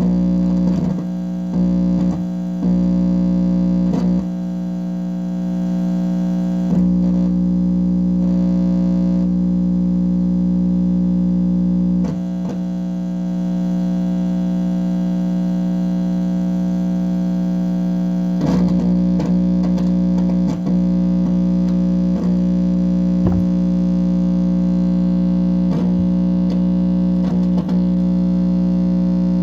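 Electrical hum and buzz played through a guitar amplifier: a steady low drone with several held tones above it, broken every few seconds by clicks and short sweeping tones. The owner takes it for directed-energy weapon signals picked up by his equipment.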